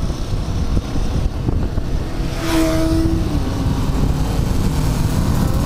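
Loud wind buffeting and road rumble while riding along a road. About two and a half seconds in, another vehicle passes, with a brief steady tone and a falling hiss.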